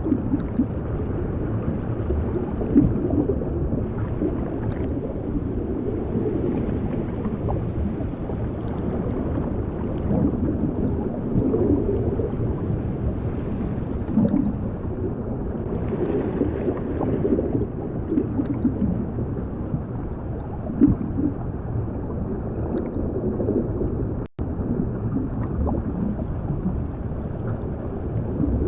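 Underwater ambience: a low, muffled rumble of moving water with irregular bubbling and gurgling and small clicks. It cuts out for an instant about 24 seconds in, then carries on.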